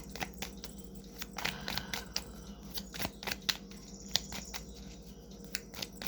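Tarot cards being shuffled and handled: a run of irregular crisp clicks and snaps over a steady low hum.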